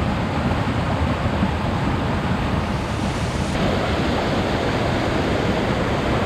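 Steady loud rushing of falling water from a waterfall.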